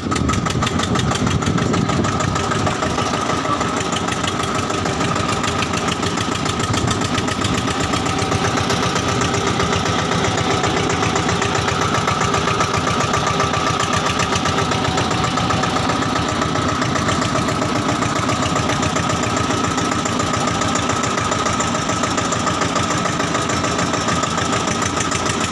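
Tractor engine running steadily, with an even, fast firing rhythm, heard while riding on the tractor.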